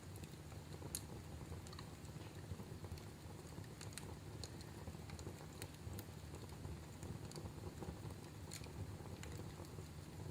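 Wood fire crackling in a fireplace: scattered sharp pops and snaps, a few a second, over a steady low rumble of the flames.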